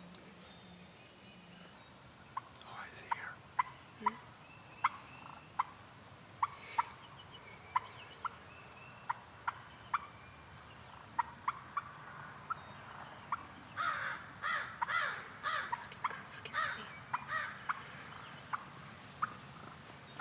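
Wild turkey gobbling, with a loud rattling run of gobbles about two-thirds of the way through, amid a steady series of short sharp calls repeated every half second or so.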